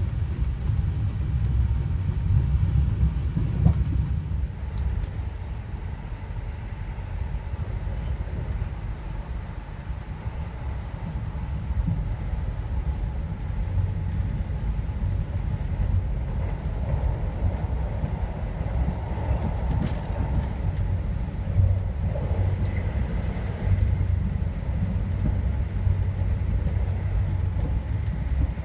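Steady low rumble of a ScotRail HST (InterCity 125) running along the line, heard from inside a passenger carriage, with a few faint clicks from the wheels and the coach.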